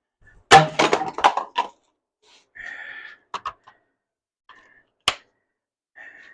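Workshop handling noise: a quick burst of clattering knocks, then a short whirring tone, a couple of light clicks and one sharp crack.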